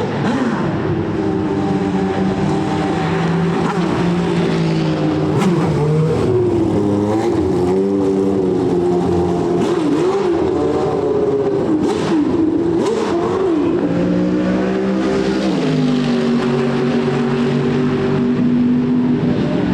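Racing car engine running continuously, its pitch wavering up and down rather than sweeping past, with a few sharp cracks around the middle.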